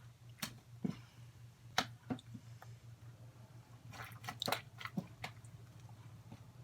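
Slime being pressed and squished by hand, giving sharp pops and clicks: a few spaced ones, then a quick cluster about four to five seconds in.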